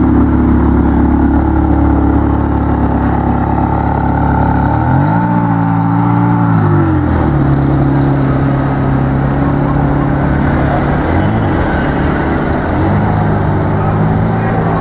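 Ferrari 360's V8 engine running at low revs. About five seconds in, the pitch climbs, holds for about two seconds and drops back, and there is a shorter rise and fall near eleven seconds.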